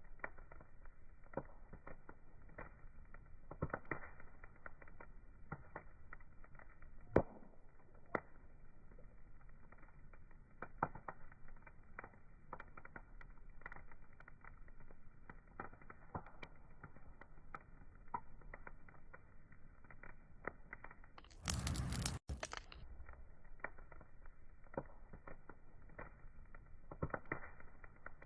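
Wood fire burning, crackling with irregular sharp pops of varying loudness over a soft steady hiss. About three-quarters of the way through there is a brief louder, brighter rush lasting under a second.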